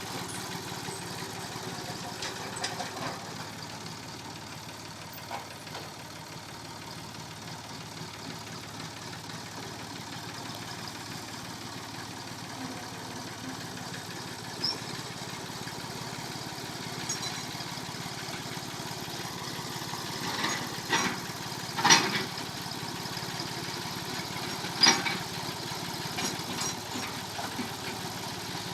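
Massey Ferguson 245 tractor engine running steadily at a low, even pace. Several sharp metallic clanks come through over the engine in the last third, two of them much louder than the rest.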